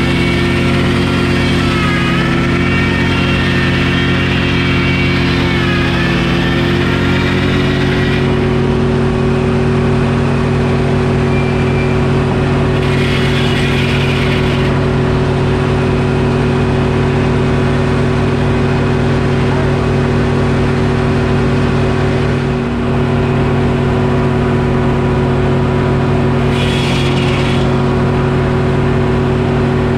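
Detroit Diesel engine running a Frick sawmill. For the first eight seconds the blade is cutting oak, with a whine that dips in pitch twice as the saw loads. After that the mill runs on steadily, with two brief hisses.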